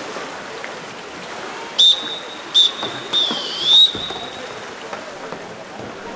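Referee's whistle blown three times: two short blasts, then a longer one that dips in pitch and rises again, over the hubbub of an indoor pool hall.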